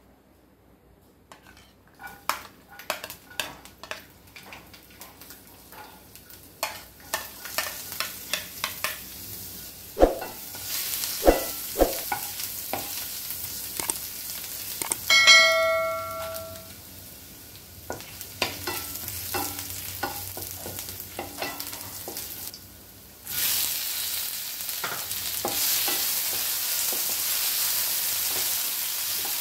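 Chopped garlic sizzling and crackling in hot oil in a nonstick frying pan, with a spatula scraping and tapping as it is stirred. About fifteen seconds in, a brief pitched ringing tone sounds. About twenty-three seconds in, the sizzle jumps to a louder, steady hiss as tomato pieces and dried red chillies go into the oil.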